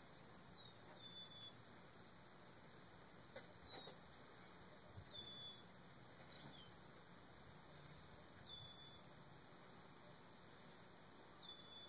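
Faint bird calls: a short whistle falling in pitch and ending on a brief held note, repeated every two or three seconds.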